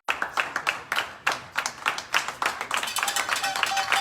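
Scattered hand clapping from a small audience: a run of quick, uneven claps.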